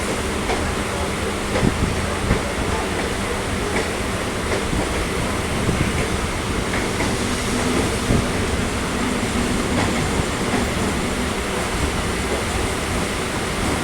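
EMU local train running on the track: a steady rumble with occasional sharp clicks of the wheels over rail joints.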